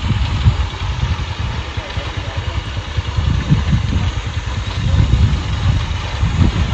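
Motorcycle engine running while riding, with uneven low rumbling gusts of wind on the microphone.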